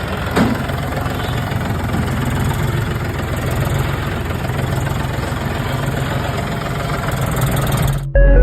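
Engine idling steadily with a low hum. It cuts off suddenly near the end as music starts.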